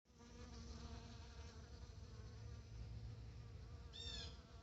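Faint, steady buzzing of honeybees in flight, over a low rumble. A short high chirp comes near the end.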